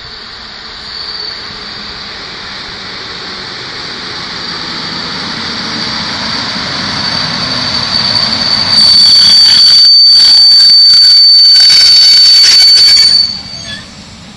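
EU07 electric locomotive hauling a passenger train past close by. A steady high whine grows louder as it approaches, then for about four seconds the passing locomotive is very loud, with clattering wheels. The sound drops off sharply as the carriages follow.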